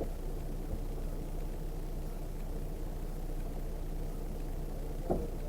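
Vehicle engine idling steadily, with one short knock about five seconds in.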